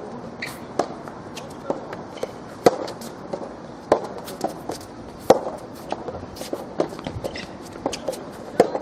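Soft tennis rally: a rubber ball struck back and forth by rackets, with sharp hits a little over a second apart and lighter ball bounces and players' footsteps on the court between them.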